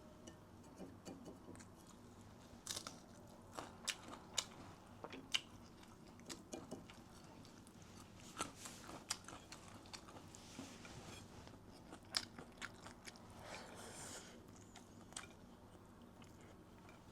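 Close-up eating sounds: crisp food being bitten and chewed, with sharp crunches at irregular intervals, clustered most densely in the first third and again about two-thirds of the way through.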